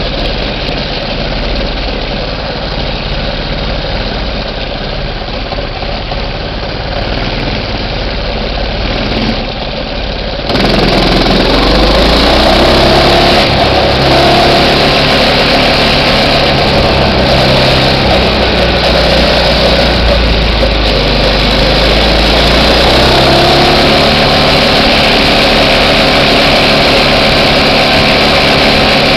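Minibike engine running: steady and idling at first, then about ten seconds in it turns abruptly louder and runs on with the pitch rising and falling as the throttle is worked.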